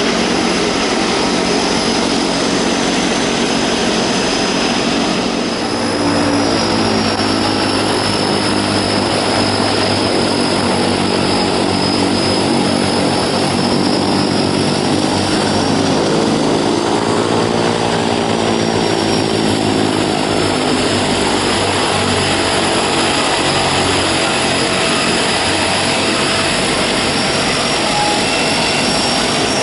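Turboprop aircraft engines running, a steady propeller drone with a turbine hiss, sweeping in tone around the middle.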